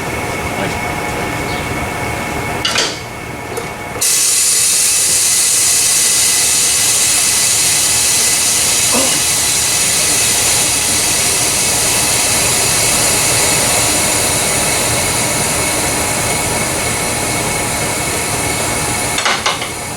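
A loud, steady hiss like escaping air starts abruptly about four seconds in and cuts off near the end. Under it runs a constant mechanical hum with several fixed tones, like shop equipment running.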